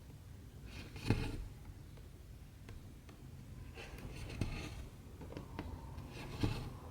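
Cotton embroidery thread being pulled through cross-stitch fabric: three soft rasping swishes, each about half a second long with a light thump, about two seconds apart, with a few faint ticks between them.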